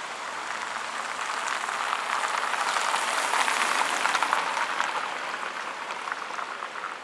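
Crowd cheering and applauding on a UFC fight broadcast, a dense crackle of clapping that swells to a peak about halfway through and then eases off.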